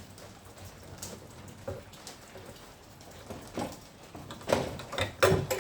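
Scattered clicks and knocks of plastic being worked and pried loose inside a washing machine, with a cluster of sharper, louder knocks near the end.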